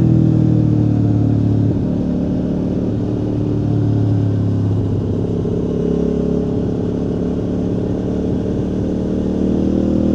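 Aprilia Tuono V4 motorcycle's V4 engine running on the move, heard from the bike. Its note falls slowly and drops about two seconds in, then holds and rises gradually through the second half as the bike picks up speed.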